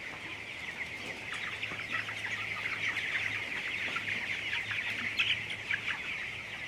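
A flock of broiler chickens in a shed peeping in a dense, continuous chorus of many overlapping high chirps, swelling in the middle with a few louder calls about five seconds in. A faint steady low hum runs underneath.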